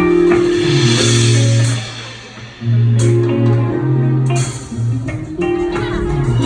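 Live band playing a song's instrumental intro: guitar chords over sustained bass notes, struck in phrases a couple of seconds long.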